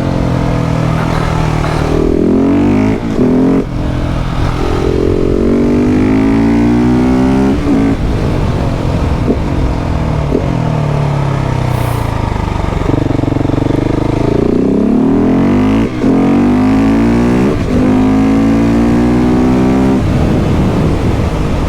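KTM 690 SMC R's single-cylinder engine under hard acceleration, revving up through the gears in several rising pulls with breaks at the shifts. Sharp pops crack between the pulls, a bang the rider likens to something exploding.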